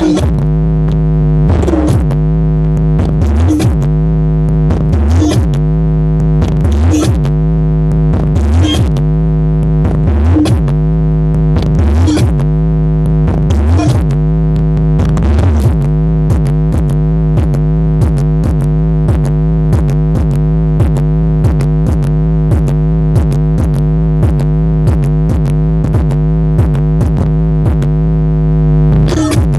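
Electronic synthesizer music from a large sound system at high volume, with a deep sustained bass note. Sweeping tones repeat about every second and a half in the first half, over a steady beat.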